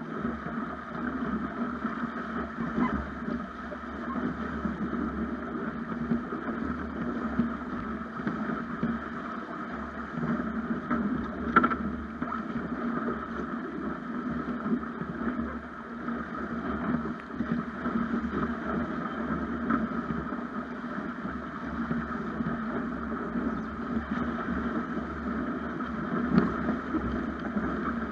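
Steady rush of water and wind heard from an action camera aboard a Snipe sailing dinghy under way, with one sharp knock near the middle.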